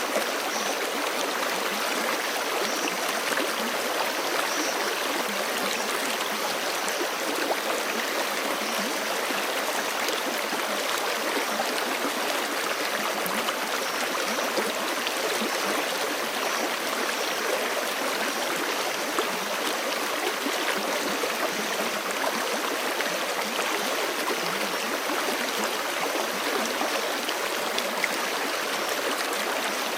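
Forest creek running steadily over rocks, an even rush of water with fine splashing and gurgling.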